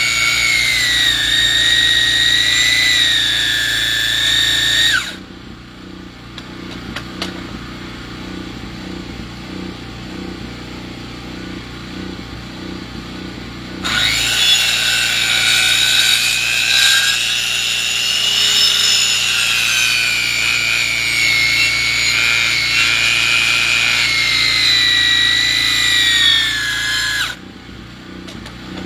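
Sawmill cutting lumber from a log: a loud, high, wavering whine of the blade in the wood for about five seconds, then only the machine's motor running quieter for about nine seconds, then a second, longer cut that stops shortly before the end.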